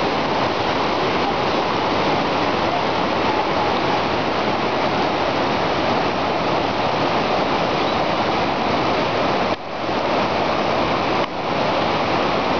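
Waterfall: a steady, loud rush of falling water, which drops away for an instant twice near the end.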